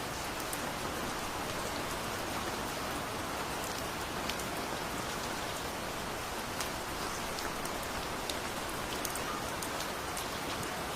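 Heavy rain falling steadily: a dense, even hiss with many separate drops ticking sharply over it.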